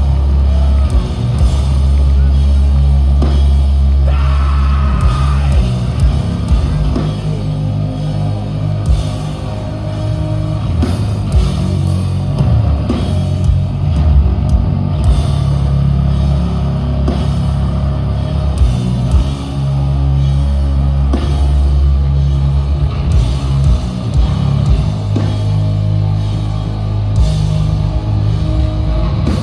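Live heavy metal band playing loud through a festival PA: distorted guitars, bass and drum kit, with heavy low end and little singing.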